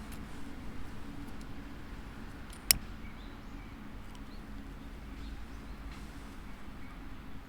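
A single sharp crack about two and a half seconds in, over a low steady background hum, with a few faint high chirps.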